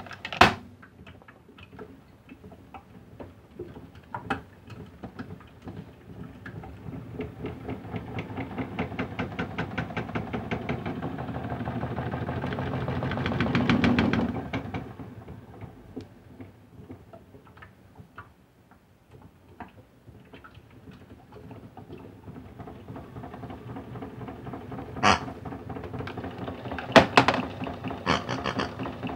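Modified Hotpoint toy washing machine running, its small motor and drum turning with a fast rhythmic ticking that builds up to a peak about halfway, dies away, then builds again. A few sharp knocks come near the end.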